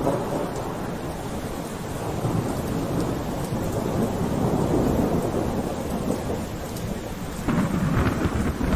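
Steady rain with low rumbles of thunder that swell up around the middle and again near the end.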